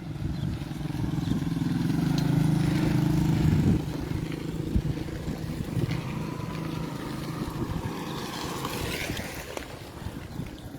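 A motor vehicle's engine running while driving, its note growing louder over the first few seconds, dropping suddenly about four seconds in, then carrying on more quietly.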